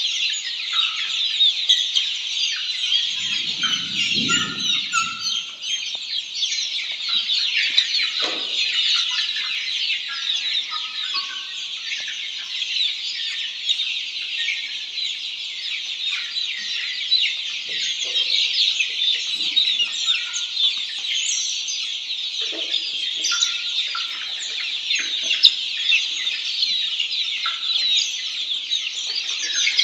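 A flock of Black Australorp chickens calling: a dense, continuous chatter of high-pitched peeps with a few lower clucks mixed in. A brief low rumble comes about four seconds in.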